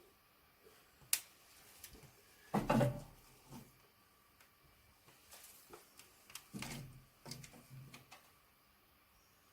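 Wood and fireplace gear being handled while a fire is laid: a sharp click about a second in, then scattered knocks and clatters, the loudest about two and a half seconds in and another bunch around seven seconds.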